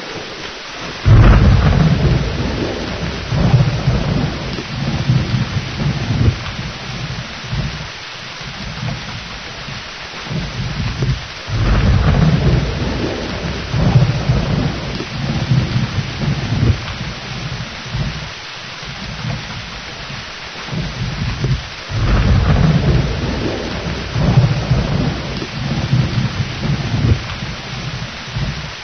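Steady heavy rain with three rolls of thunder about ten seconds apart, each starting suddenly with a loud crack and rumbling low as it dies away over several seconds.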